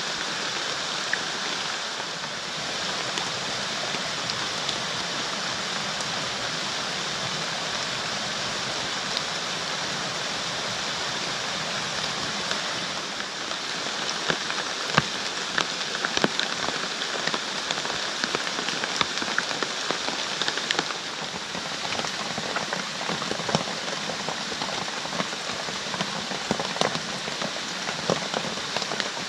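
Heavy rain falling steadily, with single drops tapping sharply on a nearby surface, more often from about halfway through.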